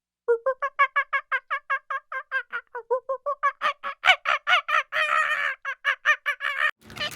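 A domestic fowl calling in a fast run of short pitched notes, about five a second, for about six seconds, getting louder and more crowded in the second half.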